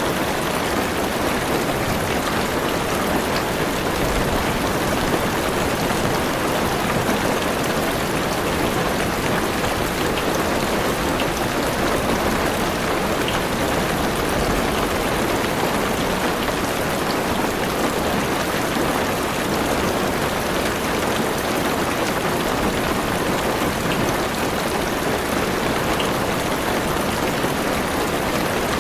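Heavy rain falling steadily on a car's roof and windows, heard from inside the car, with a few faint separate drop ticks.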